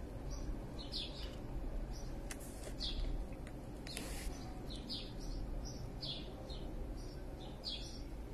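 A bird chirping faintly and repeatedly: short high chirps, one or two a second, over a low steady hum.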